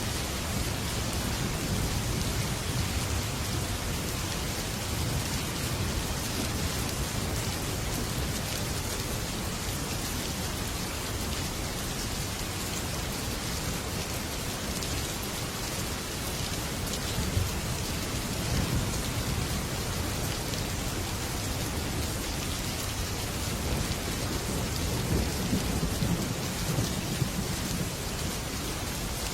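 Heavy rain drumming steadily on a metal roof, with low rolls of thunder rumbling near the start and again near the end.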